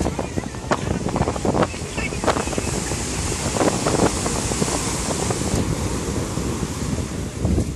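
Strong wind buffeting the microphone over rushing water, a heavy low rumble with a high hiss that swells in the middle and cuts off suddenly about five and a half seconds in.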